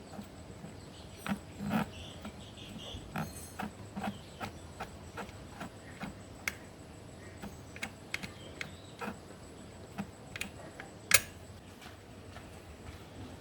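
Irregular light clicks and taps of tools and small parts being handled, with one sharp, louder click about eleven seconds in.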